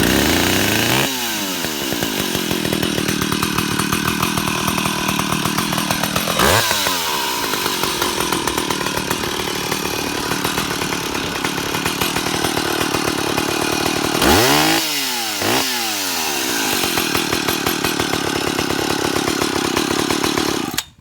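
Stihl 031AV two-stroke chainsaw, converted to electronic ignition, firing up and running fast, then dropping to idle after about a second. It is revved briefly about six seconds in and twice more around the middle of the second half, then it cuts off abruptly at the end.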